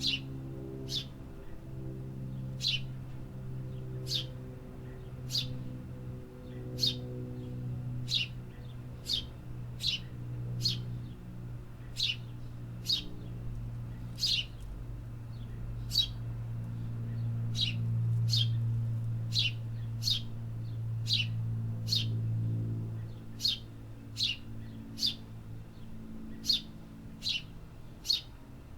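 A city bird giving short, high chirps that drop in pitch, repeated a little more than once a second, over a low steady hum that grows louder midway and then eases off.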